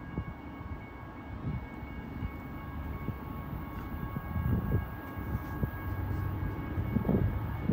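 A distant train approaching: a low rumble that slowly grows louder, with faint steady high-pitched tones running through it.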